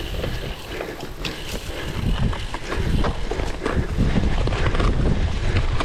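Cyclocross bike ridden over rough ground: tyres and frame rattling with many small knocks, and a low rumble that grows louder about two seconds in.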